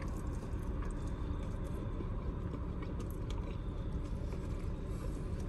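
A person biting into and chewing a carne asada taco, with soft wet mouth sounds and faint clicks. A steady low rumble runs underneath.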